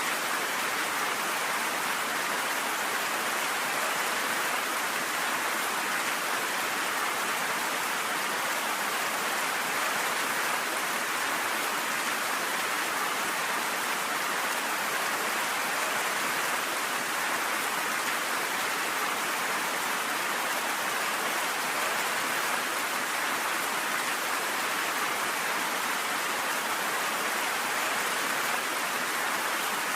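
Steady rain falling, an even hiss with no thunder in this stretch.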